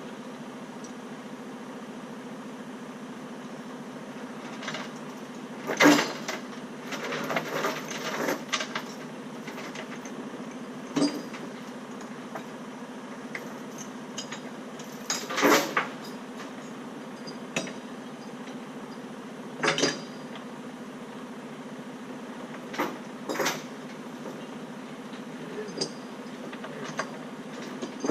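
Scattered sharp metal clanks and rattles, the loudest two about 6 and 15 seconds in, over a steady engine hum.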